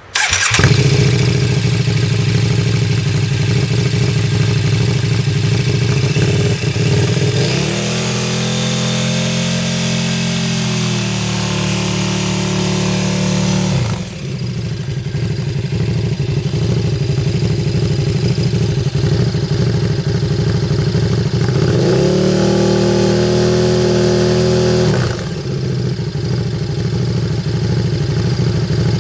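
KTM RC8's V-twin engine running through a prototype aftermarket exhaust: it starts up and idles, then is revved and held for a few seconds before dropping back to idle, twice.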